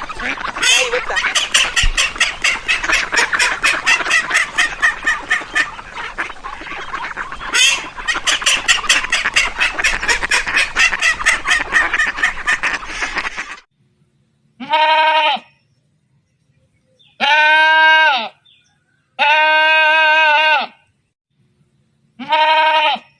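A flock of farm fowl honking and calling rapidly over one another, which cuts off suddenly. Then four long, clear bleats from a farm animal, each about a second long, with short gaps between them.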